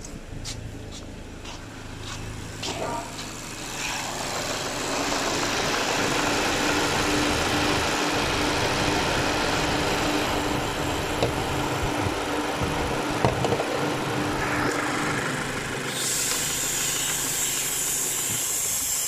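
Mazda6 engine idling with its AC compressor engaged, heard at the open engine bay, after a few knocks in the first seconds. Near the end a steady hiss starts as refrigerant is let out through the manifold gauge valve to relieve an overcharged system.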